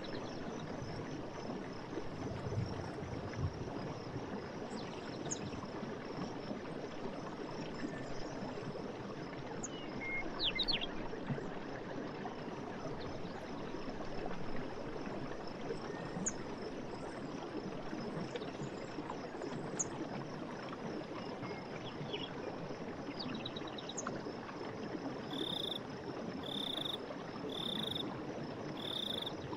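Running water flowing steadily, with a few short bird chirps and a faint high insect-like hum. Near the end a short call repeats about once a second, five times.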